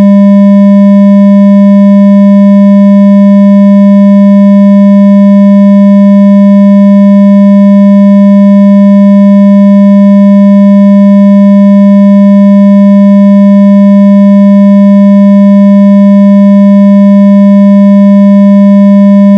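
Synthesized low tone for ejecting water from a phone speaker, played loud and held steady without change, with faint higher overtones. It is meant to vibrate the speaker cone and push trapped water out.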